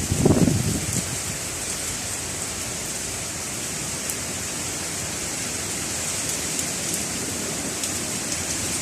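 Heavy rain pouring down in a steady, dense hiss, with single drops ticking through it. A gust of strong wind buffets the microphone with a low rumble in the first second.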